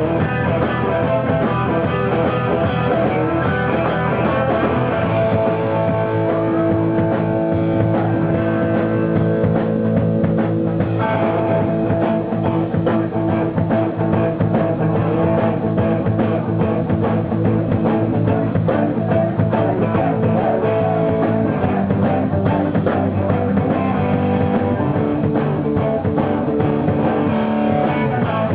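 Live rock band playing an instrumental passage, guitar to the fore, with no singing.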